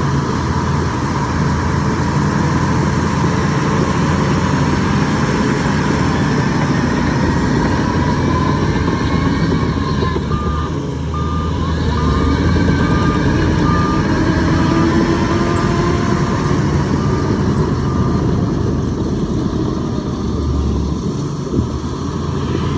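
Heavy diesel machinery engine running steadily, rising in pitch for a few seconds in the middle. A reversing alarm beeps about ten times in an even row, at a little over one beep a second, through the middle of the stretch.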